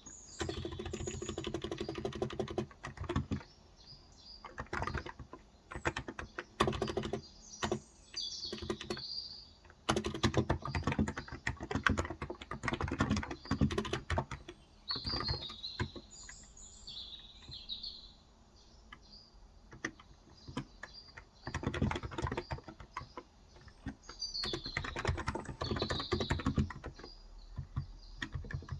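Typing in bursts with short pauses on a Cox Endeavor electro-capacitive (Topre-style) 35 g tenkeyless keyboard. Birds chirp briefly several times over the keystrokes.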